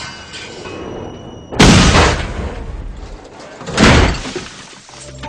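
Car crash from a film soundtrack: two loud crashing impacts about two seconds apart, each dying away quickly.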